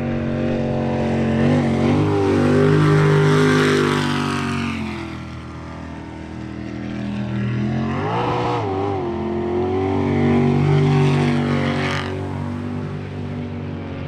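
Jet sprint boat engine running hard through the course, its pitch falling and rising as the driver comes off and back onto the throttle through the turns, growing louder twice as it passes closest.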